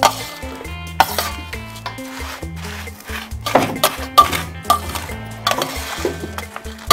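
A perforated steel spoon scraping and clinking against a steel bowl while a crumbly roasted-flour and dry-fruit mixture is stirred, in irregular strokes. Background music plays throughout.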